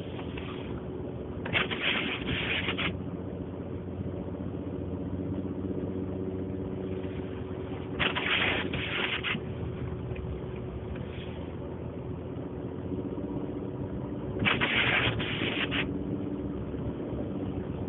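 Pickup truck driving through deep snow, heard from inside the cabin: a steady engine and road drone, with a scraping swish that comes three times at even spacing, about every six and a half seconds.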